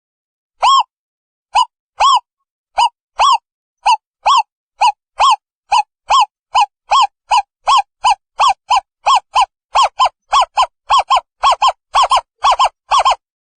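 Owl calling: a series of short hoots that starts at about one a second and speeds up steadily to about three a second.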